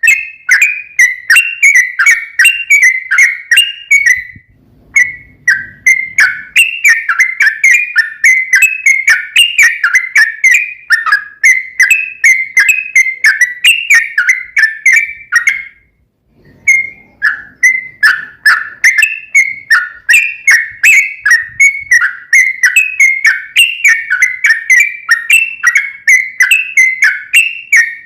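Yellow-vented bulbul (trucukan) singing long, rapid runs of repeated chattering notes, about three to four a second, with brief breaks about four and sixteen seconds in.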